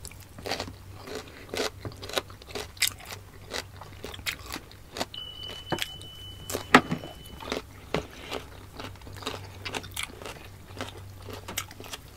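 Close-miked chewing and wet mouth sounds of two people eating steamed siomai dumplings: soft smacks and clicks several times a second. A faint steady high tone sounds for about two seconds midway.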